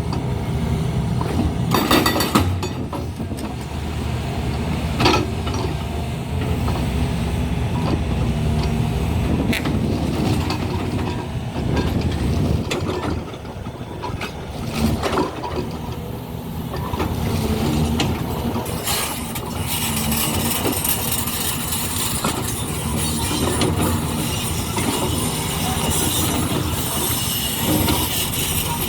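Heavy machinery on a railway construction site running steadily, with sharp metal clanks now and then and more clatter in the second half.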